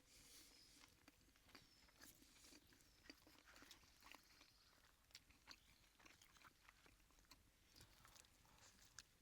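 A person chewing food close to the microphone: faint, irregular crunching and small mouth clicks.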